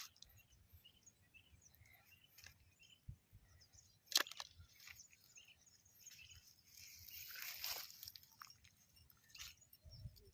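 Faint rustling and crunching of dry vegetation while snares are handled, with one sharp click about four seconds in and a longer rustle swelling between about seven and eight seconds.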